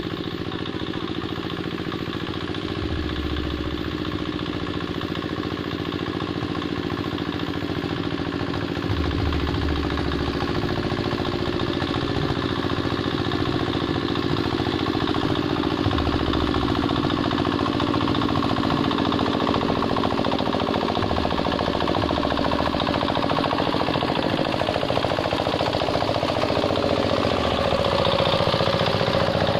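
Hand tractor's single-cylinder diesel engine running steadily under load, growing slightly louder toward the end.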